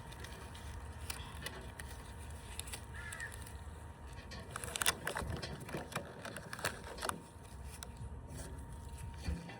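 Rubber bands being stretched and snapped onto a watermelon: a scattering of sharp snaps, the loudest about halfway through, over a low wind rumble.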